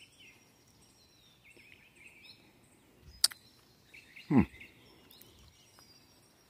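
Small birds chirping. A sharp click comes about three seconds in, and just after four seconds a brief, loud sound sweeps rapidly down in pitch.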